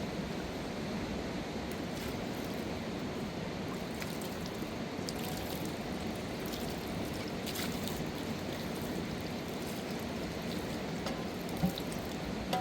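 Steady rush of flowing river water, with a few faint clicks and one short knock near the end.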